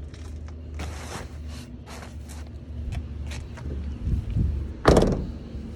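Tools being rummaged through and handled: scattered clicks and rustles, then a loud clunk about five seconds in, over a steady low hum.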